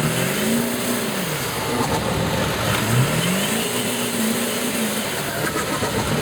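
Ford F-250 turbo diesel engine revving hard twice under load in mud, its note climbing and then dropping back each time, the second rev held longer.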